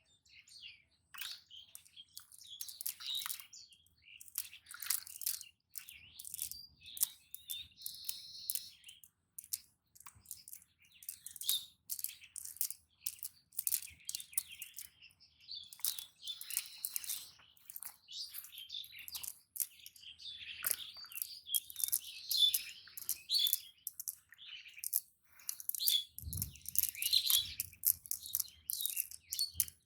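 Small birds chirping and twittering in quick, sharp bursts, with a brief low thud near the end.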